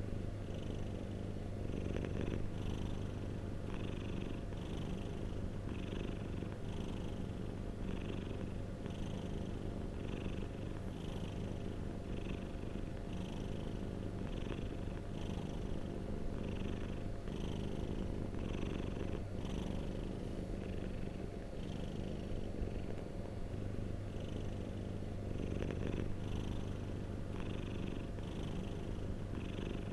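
Domestic cat purring steadily, the purr pulsing in an even rhythm of about once a second with its breathing.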